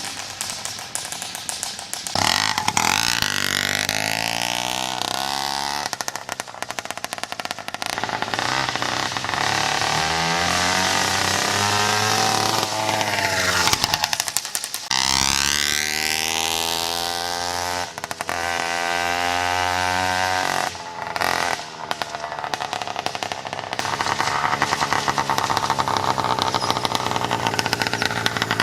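66cc two-stroke motorized-bicycle engine running and revving up and down several times, its pitch rising and falling, with a few brief drops in between.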